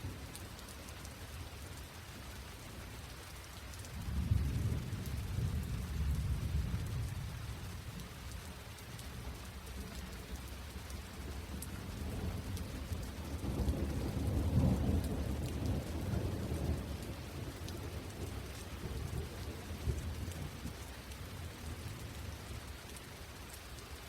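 Steady rain with low rolling thunder: one rumble starts suddenly about four seconds in, and a louder one builds and fades around the middle.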